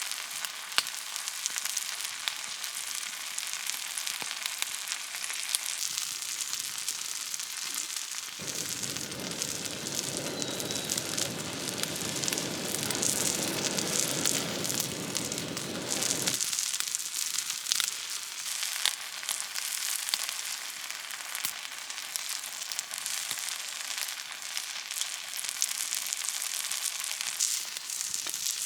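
Meat sizzling and spitting on a hot thick steel griddle plate over a wood fire, a steady crackly hiss with many small pops. A low rumble joins in abruptly for about eight seconds in the middle.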